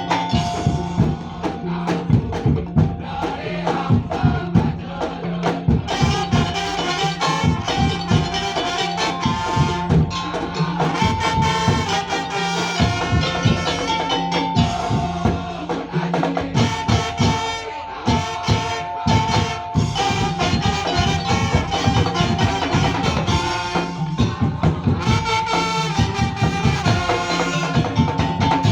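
Madurese ul-daul percussion ensemble playing: a fast, steady stream of drum and percussion strokes over a held low tone, with a short melodic phrase repeating above it.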